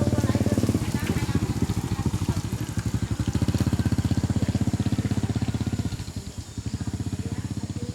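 Tractor engine running with a steady, rapid pulse, which dips briefly about six seconds in and then picks up again.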